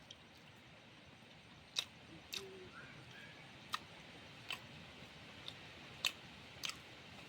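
Eating sounds: about seven sharp clicks at irregular intervals against a quiet background.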